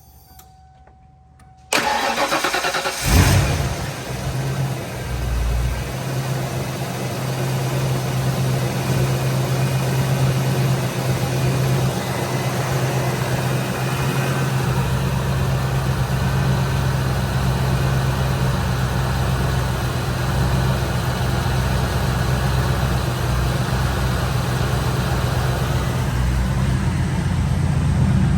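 1992 Ford Mustang LX engine cold-started: the starter cranks for about a second before the engine fires with a loud burst, then settles into a steady cold idle with a deep, even hum.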